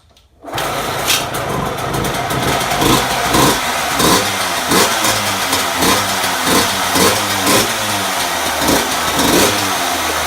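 Suzuki RM125's single-cylinder two-stroke engine, freshly fitted with a rebuilt top end, coming in after a brief silence and running with the throttle blipped over and over, the revs rising and falling about every half second.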